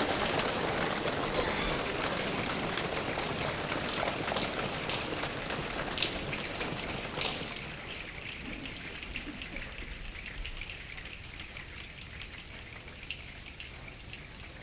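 Audience applause, a dense patter of claps that thins out and fades gradually.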